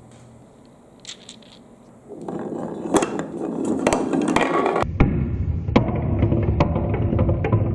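Marbles rolling and clattering down a marble run, with many sharp clicks as they knock against the track and each other. It starts faint with a few clicks, then grows much louder about two seconds in.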